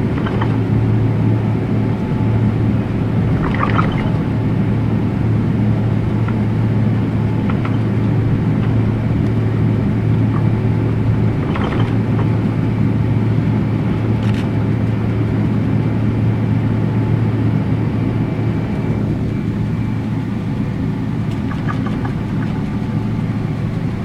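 Steady cabin rumble and low hum inside a Boeing 777-200LR on the ground just after landing, with a few faint brief sounds from the cabin now and then.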